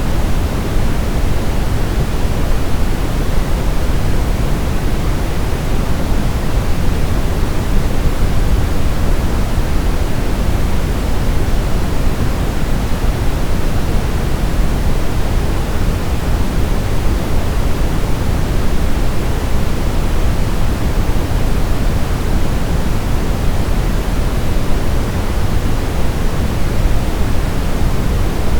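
Synthetic brown noise: a steady, unchanging deep rushing hiss, heaviest in the bass and rolling off toward the treble.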